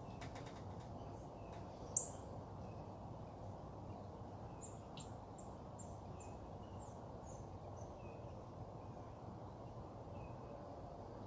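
Birds calling over a steady low background hum. One sharp high chirp comes about two seconds in, then a run of short high notes, about three a second.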